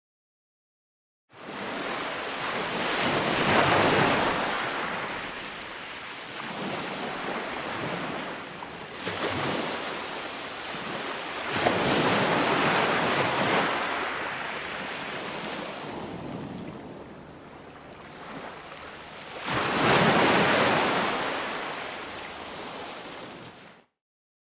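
Ocean waves breaking on a shore, a rushing hiss that swells into a loud surge about every eight seconds and ebbs between. It starts after a second of silence and cuts off suddenly near the end.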